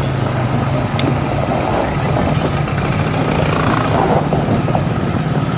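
Truck engine running steadily, a low even drone.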